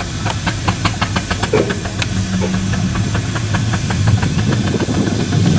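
Steam engine letting off a steady loud hiss of steam, with a fast, regular mechanical ticking beat and a low running hum underneath.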